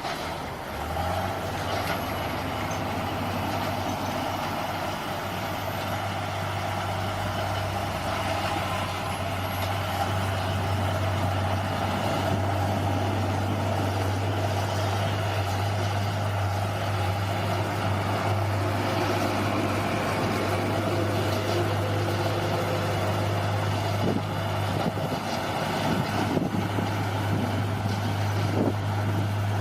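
Bulldozer's diesel engine running steadily, with a few knocks near the end.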